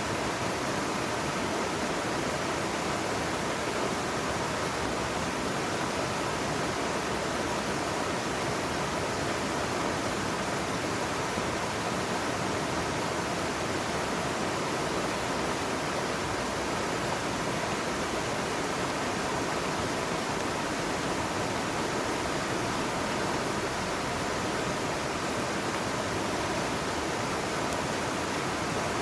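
Mountain stream water rushing steadily over rocks, an even, unchanging noise.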